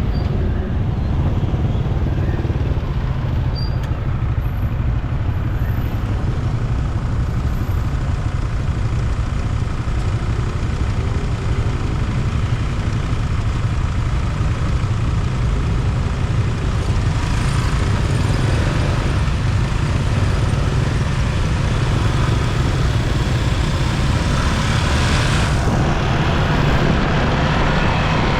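Riding a motorcycle through city traffic: a steady low rumble of wind on the microphone and the engine, over the noise of the surrounding traffic. The higher traffic hiss grows louder from about two-thirds of the way in.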